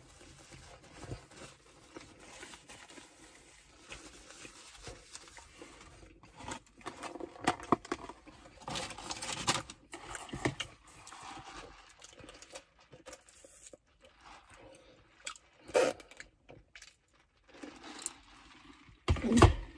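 Close-up chewing and mouth noises from eating a burger, with scattered rustles and handling clicks. A few short louder bursts stand out, the loudest near the end.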